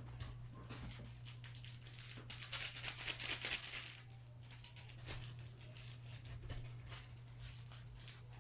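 Plastic packaging crinkling and rustling as it is handled, loudest for a couple of seconds in the middle, with a few light knocks, over a steady low hum.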